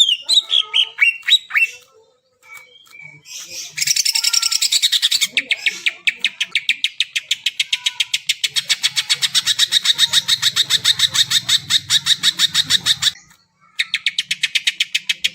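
Cucak ijo (green leafbird) singing: a few falling whistled notes, then after a short pause a long, fast run of evenly repeated chattering notes. The run breaks off briefly near the end and starts again.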